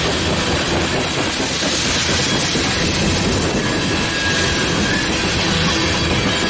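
Freight train coal cars rolling past close by: a steady, loud rumble and clatter of steel wheels on the rails.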